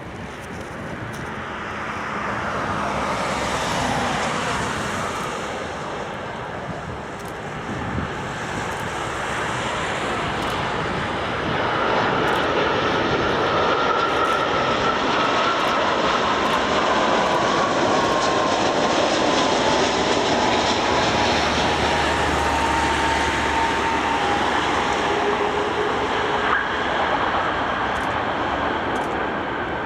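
Jet engines of an airliner, a Saudi Arabian Airlines Airbus A330, on its landing pass. The noise builds and is loudest from about twelve seconds in, with an engine whine that falls steadily in pitch as the aircraft goes by.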